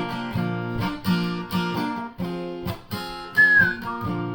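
Acoustic guitar picking chords in a steady rhythm, with one short, high whistled note near the end.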